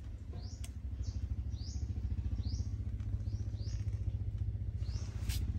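Short rising bird chirps repeating irregularly, about eight in a few seconds, over a steady low drone like a distant engine.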